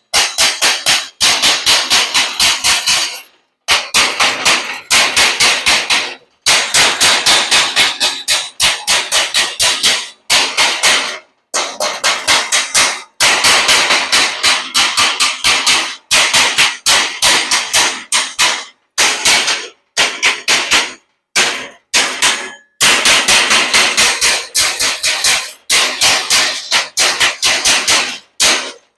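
Chipping hammer striking welds on steel grills, knocking off the welding flux (slag) before priming: quick runs of metallic strikes, several a second, broken by short pauses.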